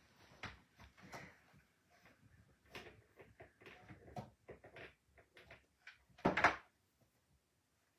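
Irregular small knocks, clicks and rustles of things being handled and set down on a table, with one louder clunk about six seconds in.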